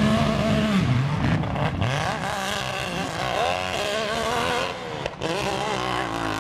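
Hill-climb motorcycle engine revving hard, its pitch rising and falling as the throttle is worked, with a few short drop-outs in the sound.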